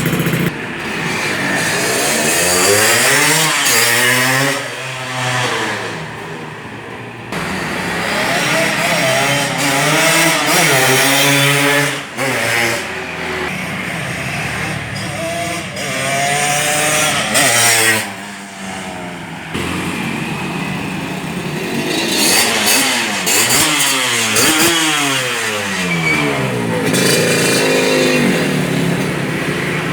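Yamaha RX-King two-stroke single-cylinder motorcycle engine running through an aftermarket 'lobster' exhaust with a crisp, sharp note. The engine pitch climbs and falls in several long sweeps, and the sound drops away briefly twice.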